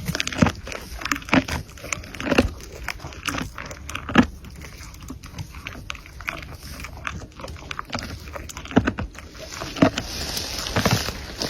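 An animal's sounds: short, irregular noises, one or two a second, a few with a brief low pitch.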